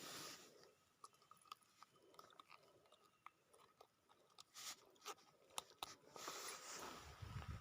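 Near silence with faint scattered clicks, and a short rustling noise about six seconds in.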